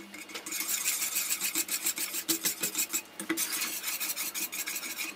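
A wire whisk scraping and beating thick, cooked pineapple custard filling in a pot, in rapid, rhythmic strokes. The wires rasp against the pot's sides and bottom.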